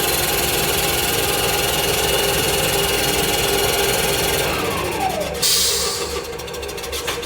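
CNC cylinder-boring machine's spindle running steadily while boring an engine cylinder. Then, about four and a half seconds in, the spindle changes RPM with a falling whine as the bore finishes and the head moves into its clearance position. A short hiss follows near the end.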